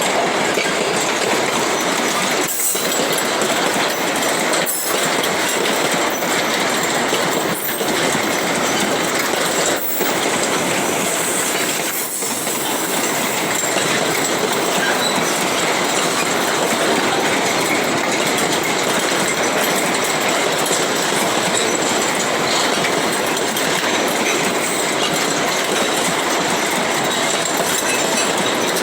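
Freight train wagons rolling past, steel wheels clattering on the rails in a steady, loud rolling noise, with a few brief dips in the first twelve seconds.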